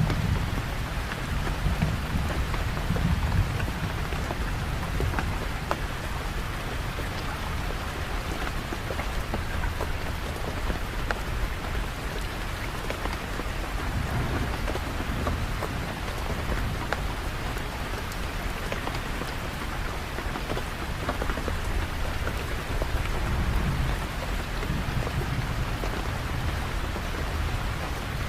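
Steady heavy rain falling and spattering on surfaces, with low rolling thunder rumbles swelling near the start, about midway and again near the end.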